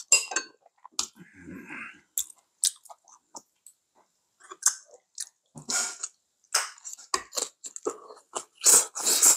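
Close-miked eating: chewing of goat meat stew, with scattered light clicks of a metal ladle and chopsticks against bowls and a louder eating noise near the end.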